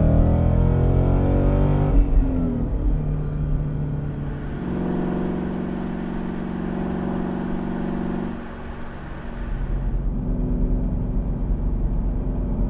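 Ford Mustang GT's 5.0 L V8 through a stainless straight-through Thermal R&D cat-back exhaust: revs falling off in the first couple of seconds, a steady held note for a few seconds mid-way, then settling to a deep idle rumble near the end.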